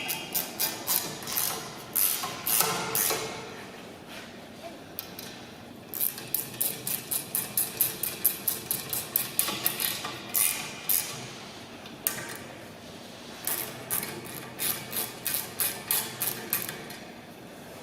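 Metal bolts being tightened with spanners: runs of quick metallic clicks, several a second, broken by short pauses.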